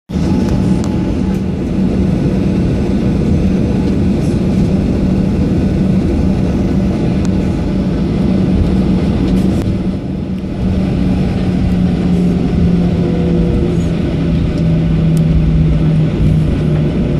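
Boeing 737-800's CFM56 jet engines running, heard from inside the cabin: a loud, steady drone with a constant low hum.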